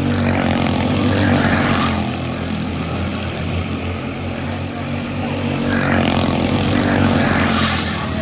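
Quarter midget race cars' small single-cylinder engines running on the track. The sound swells louder twice, about a second in and again near the end.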